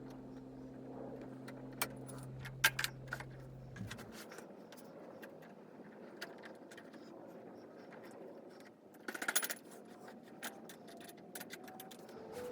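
Scattered metallic clicks and clinks of tools and metal parts being handled, with a quick run of clinks about nine seconds in. A low steady hum stops about four seconds in.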